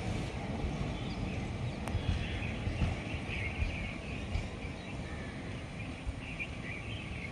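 Low rumble of a departing passenger train fading as its last coach draws away along the track, with birds chirping over it.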